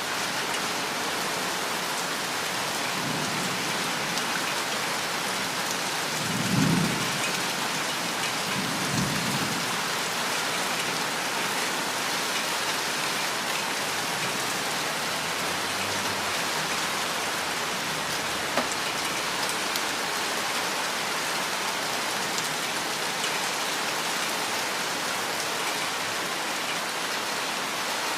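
Heavy, steady rain in a thunderstorm, with low rumbles of thunder: the loudest about a quarter of the way in, another soon after, and a faint one past the middle.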